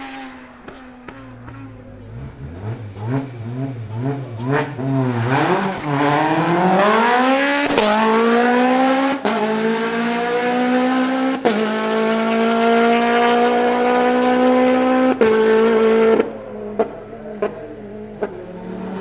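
Race car engine accelerating hard up through the gears: low and wavering at first, then climbing in pitch in each gear, with four quick upshifts. Near the end it lifts off and a few sharp pops follow.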